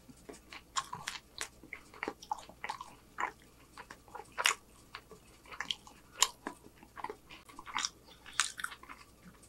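Close-miked mouth chewing a bite of a homemade chicken street taco: a stream of short, irregular clicks of jaw and tongue working the food.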